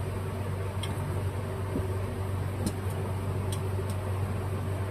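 Steady low hum and even hiss of background room noise, with a few faint light clicks.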